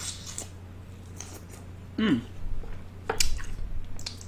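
Crawfish shells being cracked and peeled by hand: scattered sharp clicks and crackles, the loudest a little past three seconds in, with a short falling sound about two seconds in.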